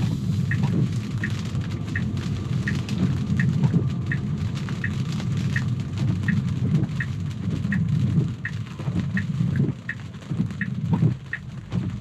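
A Tesla's turn signal ticks evenly, about three ticks every two seconds, inside the cabin over the low rumble of tyres on a wet road and rain on the car.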